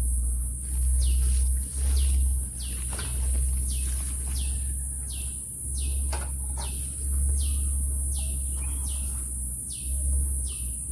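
A bird calling over and over, a steady string of short notes that each fall in pitch, about two a second. A steady low rumble and a high hiss run underneath.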